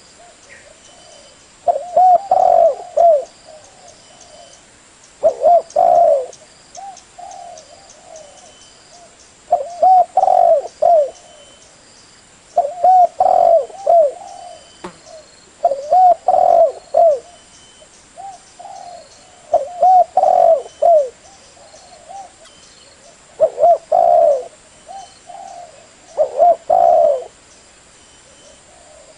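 Spotted dove cooing: a phrase of several rolling coos repeated about eight times, roughly every three to four seconds.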